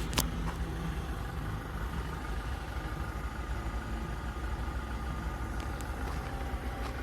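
Steady low hum of a car's engine and road noise heard inside the cabin, with a sharp click just after the start.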